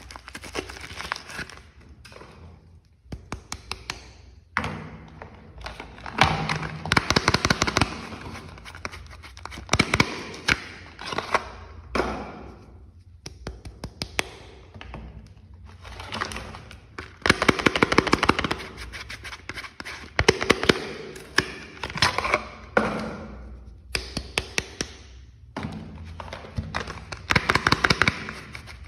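Soap packaging being unwrapped by hand, crinkling and crackling with sharp taps, in bursts a second or two long separated by short pauses.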